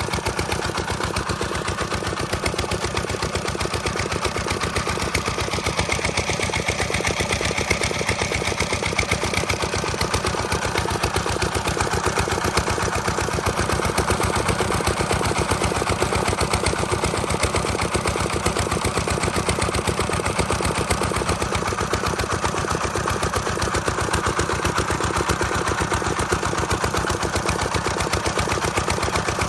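Diesel engine driving a water pump, running steadily with a rapid, even knocking beat.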